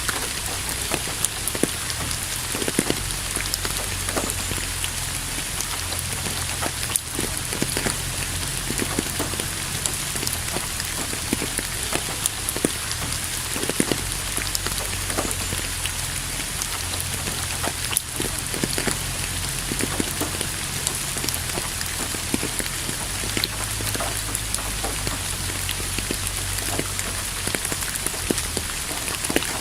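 Steady rain falling on a surface, with many separate drop ticks over an even hiss and a low rumble underneath.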